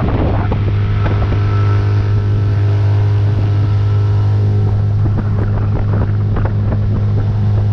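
Tohatsu 9.8 hp four-stroke outboard motor running at a steady speed under way, with a constant drone and brief sharp noises scattered over it.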